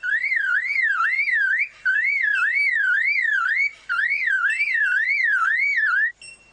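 Male superb lyrebird mimicking a car alarm: a whistled tone warbling up and down about twice a second, in three phrases with short breaks, stopping about six seconds in.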